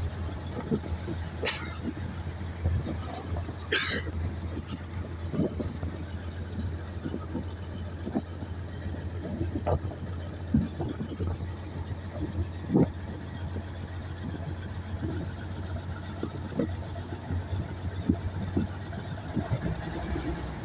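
Mobile crane's engine running steadily with a low hum. Scattered knocks run through it, and two sharp clicks come in the first four seconds.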